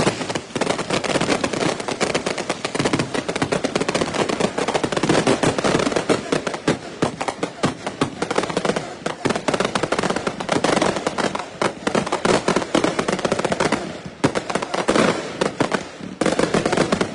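Consumer fireworks going off in a rapid, continuous run of crackling pops, many a second, with brief lulls near the end.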